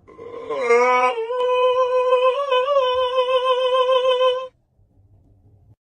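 One long vocal note held at a steady pitch for about four and a half seconds. It slides down a little at the start, wavers slightly in the middle, then stops.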